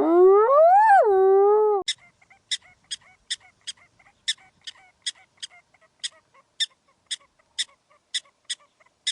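A drawn-out animal call with a clear pitch, rising and then falling and cutting off about two seconds in. It is followed by a run of sharp clicks, roughly two a second.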